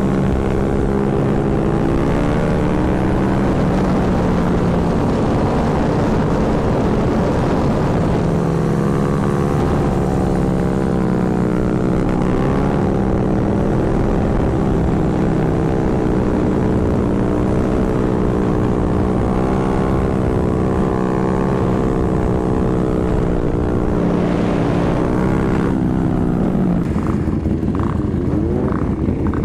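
Motorcycle engine running under throttle, its note wavering up and down as the throttle is worked, then dropping away near the end.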